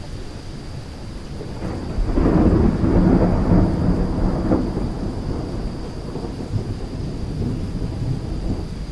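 Thunderstorm: thunder rumbling over steady rain, with a loud peal about two seconds in that rolls on and dies away over the next few seconds.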